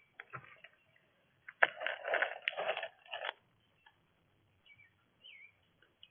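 Scratchy crunching and clicking at a bird feeder, loudest for a second and a half in the middle, then two faint short chirps near the end.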